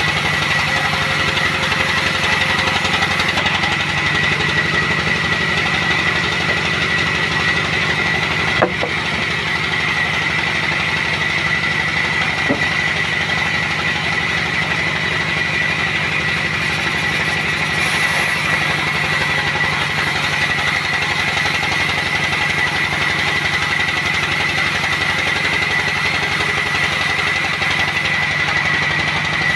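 Sawmill machinery running steadily: a motor's drone with a high, steady whine, and two sharp knocks, about nine and twelve seconds in.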